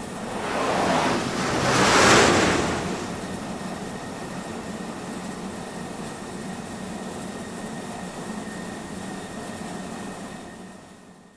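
Jet engine noise: two swelling surges of rushing air, the second the louder, then a steady rush with a faint hum and a thin high whine, fading out at the end.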